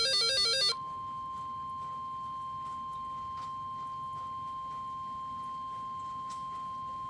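NOAA Weather Radio alert for a special marine warning. The buzzy, warbling end of a SAME digital header burst cuts off about a second in, and the steady 1050 Hz Warning Alarm Tone starts at once and holds, with a few faint static clicks under it.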